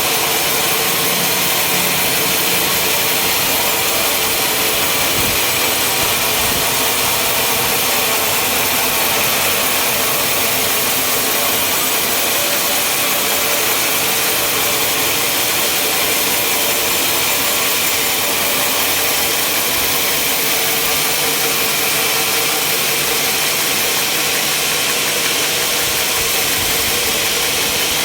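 Sawmill machinery running with a steady, unbroken mechanical noise at an even level.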